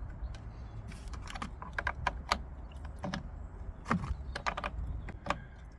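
Irregular light clicks and knocks of hands and tools working the plastic cover and fittings at a car battery's positive terminal, about a dozen sharp taps spread unevenly over a low steady rumble.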